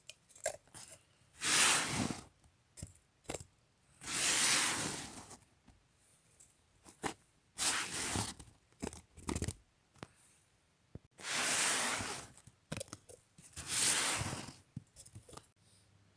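Snow and ice crunching and scraping in six strokes of about a second each, with small knocks and clicks between them.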